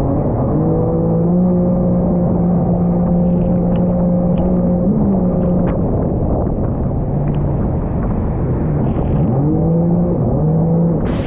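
Jet ski engine throttling up to a steady pitch, easing off about five seconds in, then revving up again near the end, over a steady rushing noise.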